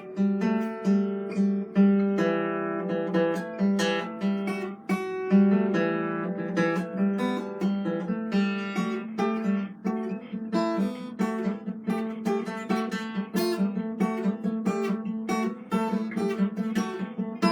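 Acoustic guitar played solo: a quick run of plucked notes and strums over a held low note.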